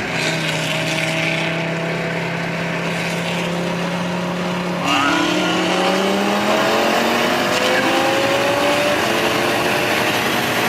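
Car engine running at a steady cruise, then about five seconds in it gets louder and accelerates hard, its pitch climbing through the revs.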